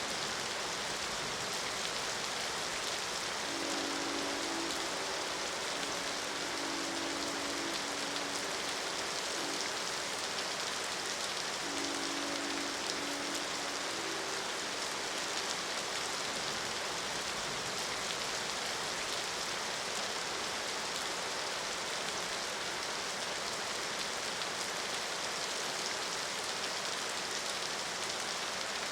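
Steady rain hiss throughout, with a train horn sounding a held multi-note chord twice: a long blast starting about four seconds in, and a shorter one around twelve seconds in.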